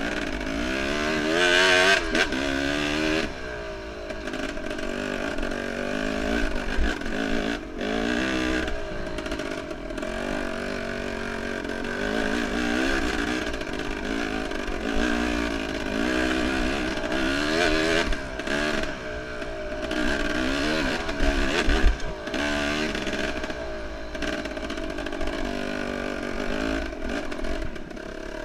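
Enduro motorcycle engine revving up and down again and again as it is ridden off-road, pitch climbing and dropping with the throttle, with occasional thumps and clatter from the bike over rough ground.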